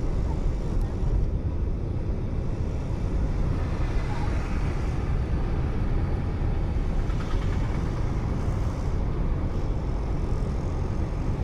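A car driving on a road: steady engine and tyre noise as picked up by a dashcam.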